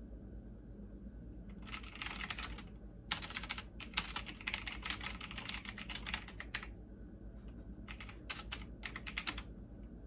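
Computer keyboard typing in three runs of quick keystrokes, the longest about three and a half seconds, with short pauses between them.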